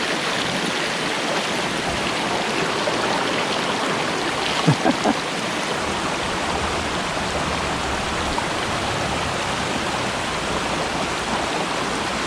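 Small stream rushing steadily over little waterfalls. About halfway through, three short, louder sounds break through the water noise.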